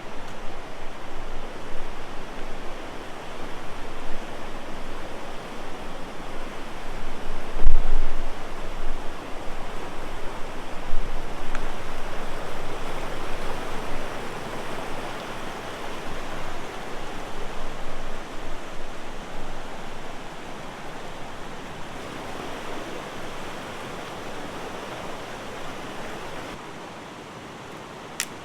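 River water rushing, a steady noise that gradually fades toward the end, with one low thump about eight seconds in.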